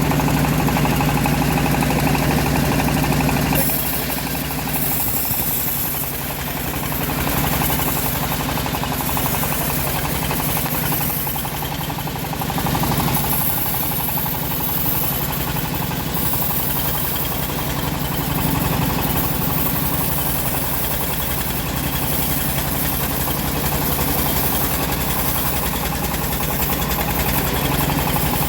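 Engine of a homemade bandsaw sawmill running steadily while it saws a mahogany log, with a hiss that grows louder about four seconds in.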